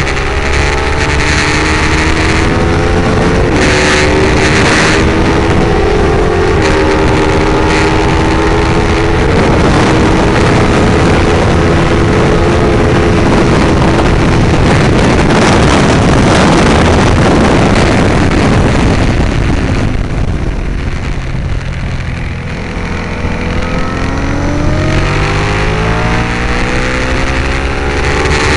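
Ducati 848 L-twin engine at full throttle, heard onboard, pulling up through the gears with rising revs broken by quick upshifts. Through the middle the engine is buried in a steady rush of noise at speed; past two-thirds of the way the throttle closes and the revs drop for a corner, then it accelerates hard again, revs climbing with more upshifts near the end.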